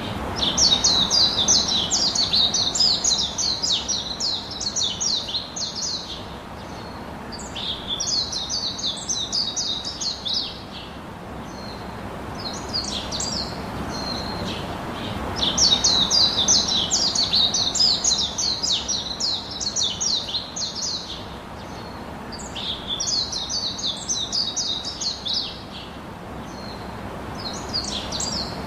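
Birds chirping in fast, high twittering phrases a few seconds long, several times over, with a pause between each phrase, over a steady background hiss.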